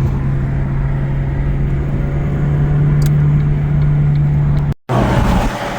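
Big-turbo Audi A3 2.0T cruising, heard from inside the cabin: a steady engine drone with road noise. It cuts out for a moment near the end and returns with rougher road noise.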